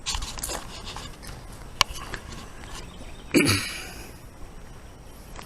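Footsteps and rustling of a person walking, with a sharp click just under two seconds in and a louder rustling burst about halfway through.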